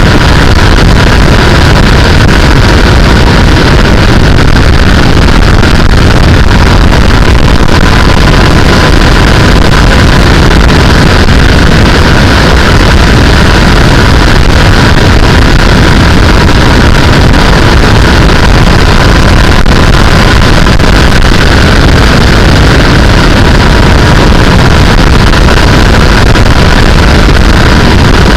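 Sportbike running steadily at highway speed, its engine under loud, constant wind rush on the microphone.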